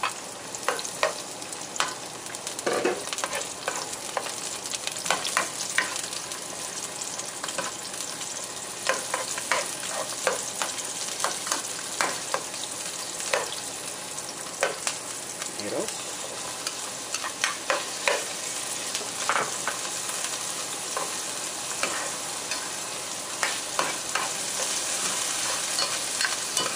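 Diced onions and garlic, later joined by tomatoes, frying in hot oil in a nonstick pan: a steady sizzle with frequent clicks and scrapes of a spatula stirring them against the pan.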